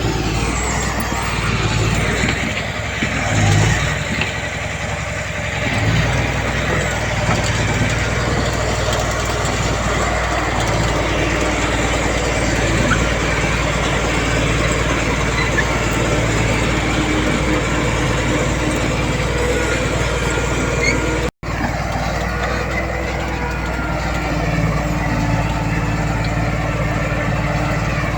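Diesel engines of a bulldozer and dump trucks running steadily while they move dirt, with a momentary break in the sound about three quarters of the way through.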